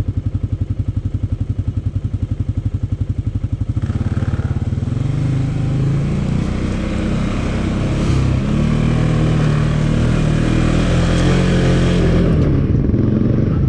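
Dirt bike engine putting along at low revs with an even beat. About four seconds in it is opened up and revs hard under load up a hill, easing off near the end.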